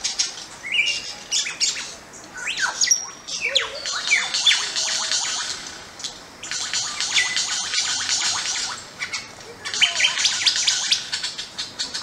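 Birds chirping and twittering in several bursts of quick, high, gliding notes, with short lulls between them.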